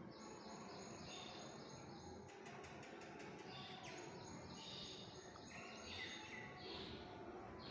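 Faint bird chirping over a steady background hiss, with a quick run of repeated chirps a couple of seconds in.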